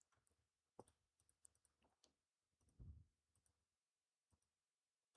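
Near silence, broken by a few faint computer mouse clicks.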